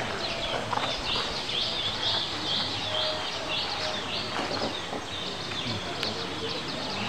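A bird calling over and over, a short high chirp about twice a second, with people talking faintly behind it.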